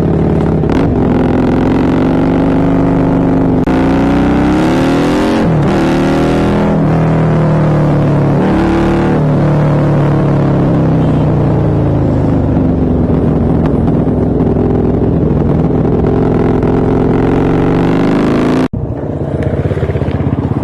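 Husqvarna Nuda 900R's parallel-twin engine running while the bike is ridden, revs repeatedly rising and falling as the throttle is opened and closed. The sound breaks off for an instant near the end and then carries on slightly quieter.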